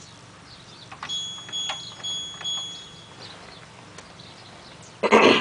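LG washing machine's control panel beeping as the programme dial is turned: a few high beeps at one pitch with faint clicks, then a short loud burst of sound near the end.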